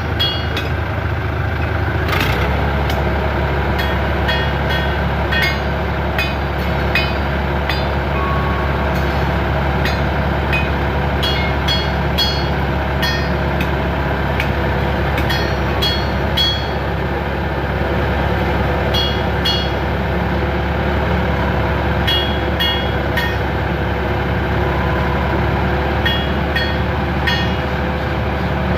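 A heavy engine running steadily, its low drone picking up about two seconds in, with frequent sharp metallic clinks and rattles over it.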